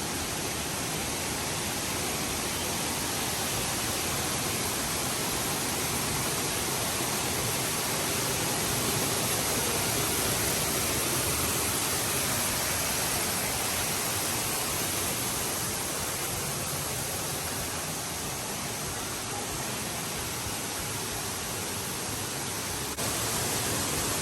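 Waterfall: a steady, even rush of falling water, stepping up slightly in level near the end.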